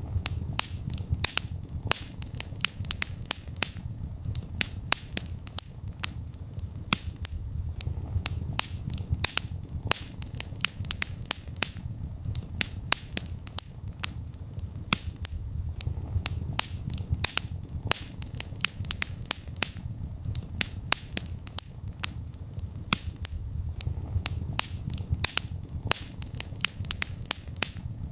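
Wood fire burning in a fireplace: frequent sharp, irregular crackles and pops over a low steady rumble of the flames.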